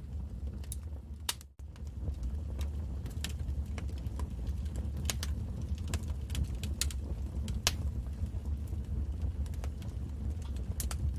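Wood fire crackling, with irregular sharp pops over a low steady rumble. The sound drops out briefly about a second and a half in.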